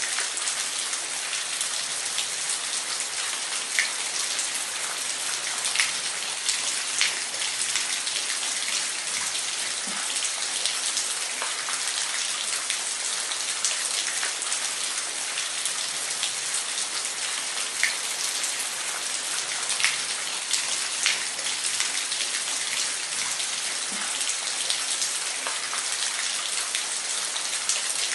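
Waterfall: a steady hiss of falling water with scattered sharp splashes and drips.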